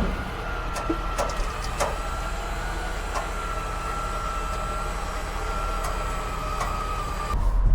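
Truck running, with a low rumble, a steady high whine and a few light rattles. Near the end the whine stops and a louder low rumble comes in.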